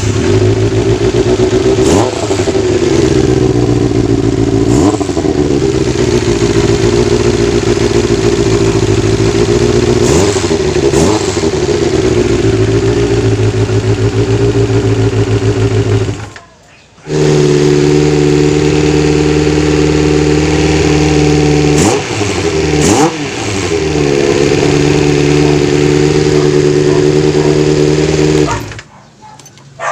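Kawasaki GPz 400 motorcycle engine running steadily, blipped several times so the revs rise and fall briefly. The sound breaks off suddenly about halfway through, then the engine is heard running and revving again.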